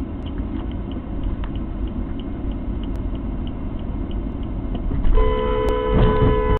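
A car's engine and road rumble, heard from inside the car, with a light ticking about three times a second. About five seconds in, a car horn starts with a steady two-note blare and holds on.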